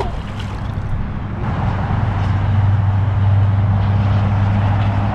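A motor vehicle's engine running close by with a steady low hum, growing louder about a second and a half in.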